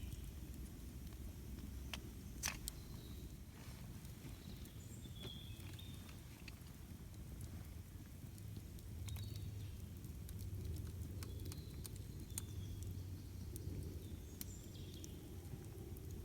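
Campfire crackling with scattered sharp pops, the strongest about two and a half seconds in, over a low steady rumble. Birds chirp faintly now and then.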